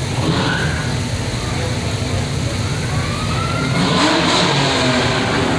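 Car engine running with a low rumble and revving about three seconds in, with voices in the background.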